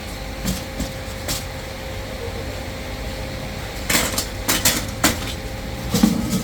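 Factory machinery running with a steady low hum and a faint steady tone, with a few light clicks early and a run of sharp clattering knocks from about four seconds in.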